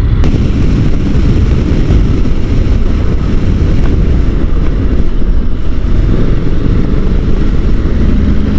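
Motorcycle on the move: steady low engine rumble mixed with wind noise on the rider's microphone.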